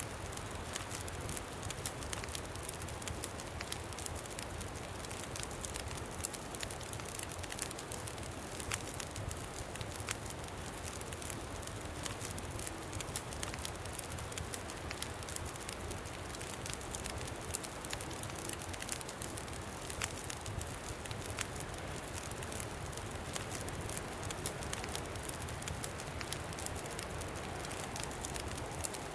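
Campfire crackling steadily, with many small sharp pops and snaps, over a steady rush of wind.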